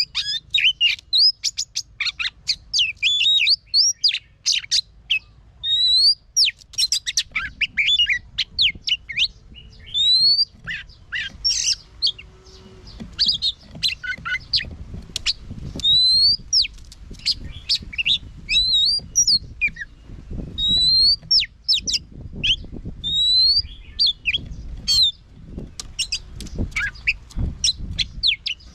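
Oriental magpie-robin singing a long, varied song of quick whistles, trills and rising slurred notes in short phrases with brief pauses. A low rumble runs underneath, stronger in the second half.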